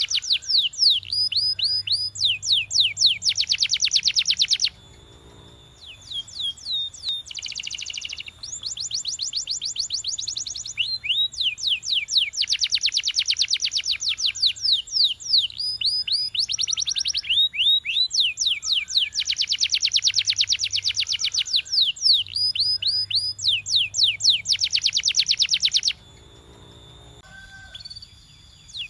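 Canary singing: fast trills of rapidly repeated, downward-sweeping high notes, shifting between rolls of different speed and pitch, with two brief pauses, about five seconds in and near the end.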